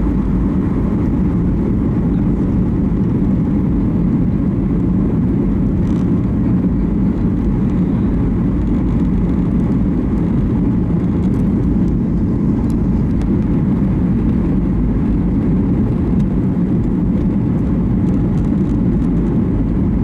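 Steady low rumble of an airliner's engines and rushing air, heard inside the passenger cabin in flight. It cuts off abruptly at the very end.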